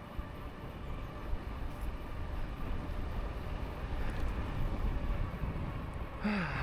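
Steady wind and road rumble from an e-bike riding along at speed, with a faint steady whine over it.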